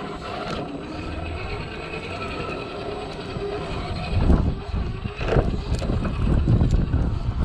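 Traxxas TRX-4 RC crawler's electric motor and gearbox whining as it drives, the pitch drifting with the throttle, over a low rumble. There are a couple of louder knocks about halfway through.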